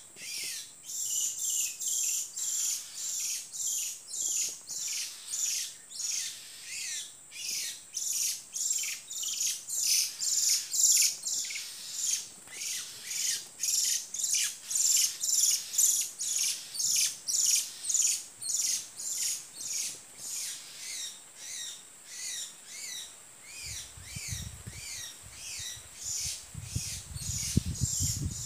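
Short, high chirps repeating very evenly, about two a second, without a break. A low rumble joins in near the end.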